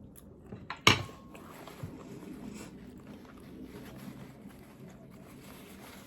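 Tableware knocked down sharply about a second in, with a smaller knock just before it and another about a second later, then faint chewing.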